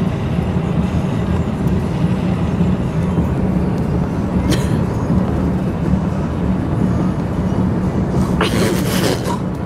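Steady low rumble of road noise inside a moving vehicle, with a single click about halfway through and a brief breathy burst near the end.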